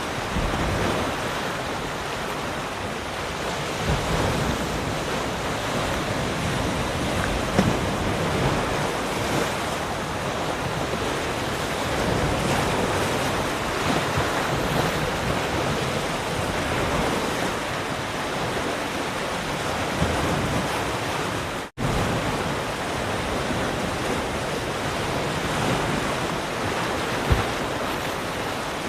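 Ocean surf washing continuously, with wind buffeting the microphone in a few low thumps. The sound cuts out for a split second about three quarters of the way through, then resumes.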